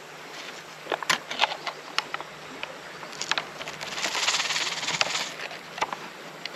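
Scattered light clicks and taps, with a brief rustle about four seconds in, from handling a camp stove setup and food pouch.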